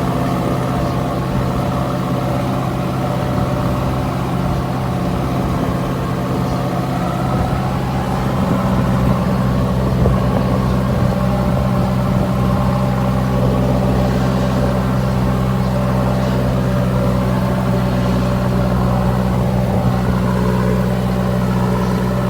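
Vehicle engine running steadily through its exhaust at idle, the note growing a little louder and fuller after about eight seconds.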